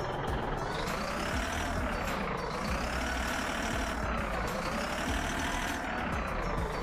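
A heavily loaded truck's diesel engine runs with a steady low rumble, under a siren-like warning tone that rises and falls about every one and a half seconds, as when a truck is reversing.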